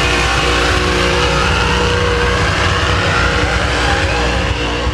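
Modified pulling truck's engine running loud and hard at high revs, a heavy rumble holding a steady pitch.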